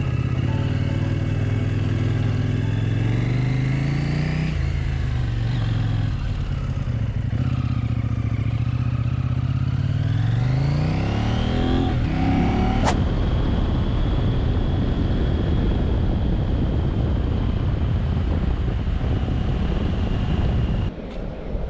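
KTM 790 Adventure R's parallel-twin engine pulling away and accelerating through the gears, its pitch rising twice with a drop at the shift in between. About halfway through there is a sharp click, and from then on steady riding with wind rushing over the microphone covers the engine.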